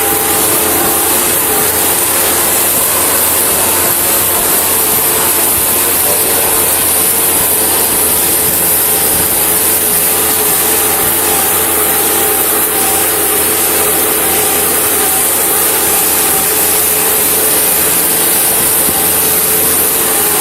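Engine running steadily with a constant hiss over it, unchanging throughout.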